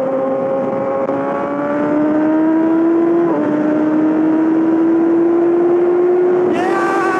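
Yamaha R6 inline-four engine through a full M4 exhaust, running under load with its note climbing slowly. About three seconds in the pitch steps briefly, and near the end a rush of hiss comes in.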